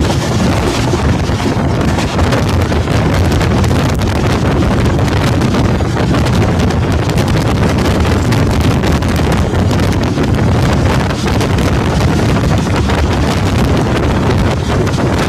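Wind buffeting the microphone at the open door of a moving passenger train, over the steady running noise of the train on the track.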